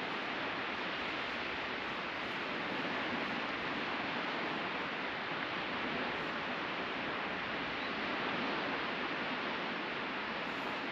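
Ocean surf washing onto the beach, a steady even hiss of breaking waves with no separate surges standing out.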